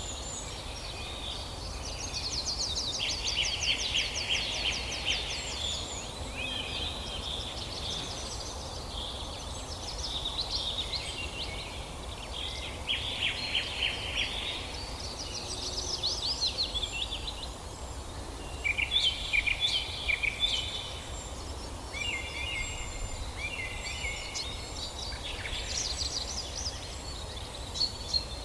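Several songbirds singing and calling together in a forest chorus: overlapping chirps and fast trills, some dense bursts of song, over a steady low background rumble.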